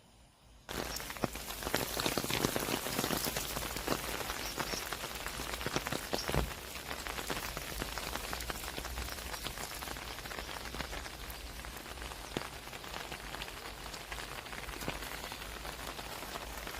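Steady rain, countless small drops hitting a surface, starting abruptly about a second in.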